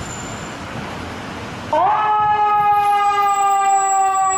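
A steady hiss, then about two seconds in an ambulance siren starts: it sweeps up quickly and holds one long wail that sinks slowly in pitch.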